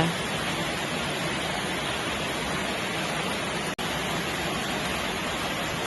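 Steady hiss of rain ambience, even and unchanging, with a momentary dropout a little past the middle.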